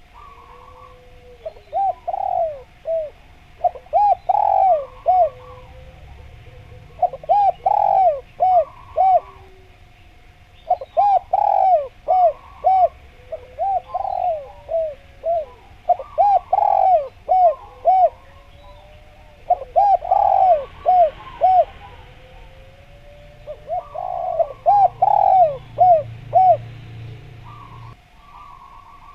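Spotted dove (derkuku/tekukur) cooing loudly, giving repeated phrases of several short coos about every three to four seconds.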